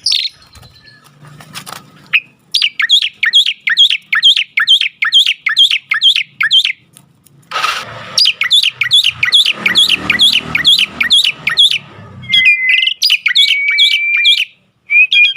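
Mynas calling: fast runs of repeated sharp chirps, about four or five a second, then a held whistle with chirps over it near the end.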